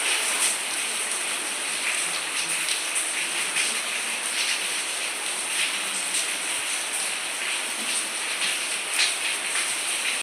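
Heavy rain pouring steadily, an even loud hiss of falling water. The downpour is driven by a cyclone.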